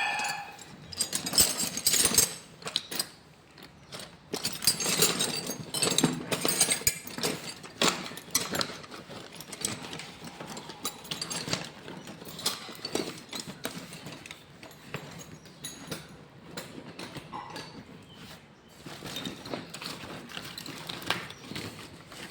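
Rummaging through a bag of tools and parts: irregular rustling with clicks and clinks, busier in the first half.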